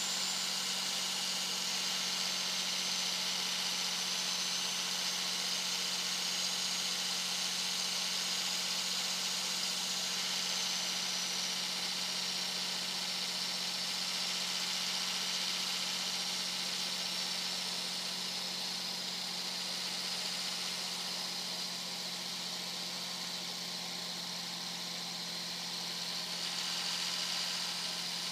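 2001 Dodge Ram 2500's 5.9-litre Cummins inline-six turbo diesel running at highway speed, its turbocharger whistling loudly over a steady engine hum. The high whistle sinks slowly in pitch through the middle and climbs again near the end.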